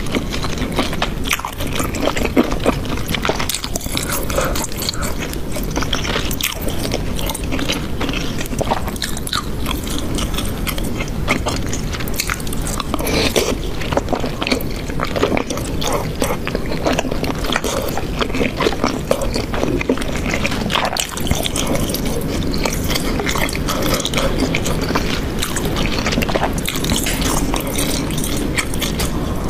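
Close-miked mouth sounds of a person chewing a mouthful of saucy stewed meat and rice: a steady stream of wet clicks and smacks.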